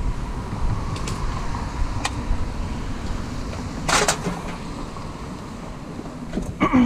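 Car running with a steady low rumble of engine and road noise, with a sharp click about four seconds in.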